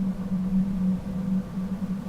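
A steady low hum that holds one pitch throughout, with a fainter higher tone above it.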